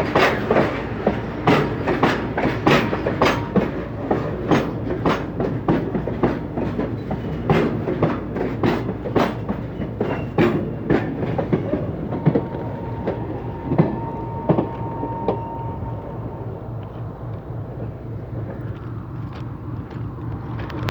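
Goods train wagons rolling past, their wheels clicking over rail joints in a steady clickety-clack over a rumble. The clicks thin out and the sound fades in the last few seconds as the train draws away.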